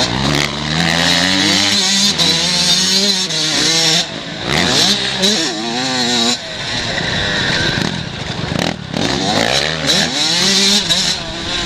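Motocross bike engines revving hard and easing off repeatedly, the pitch climbing then dropping back every two seconds or so with the throttle and gear changes, as 125 cc race bikes ride the track.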